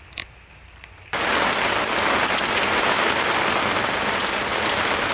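Heavy rain pouring down in a storm, cutting in suddenly about a second in as a loud, even hiss that does not change.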